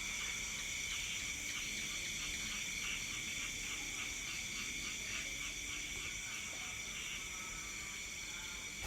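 Night insect chorus: a steady, high-pitched trilling of many crickets in several pitches at once, with a separate pulsing call repeating about four times a second that fades out after the first few seconds.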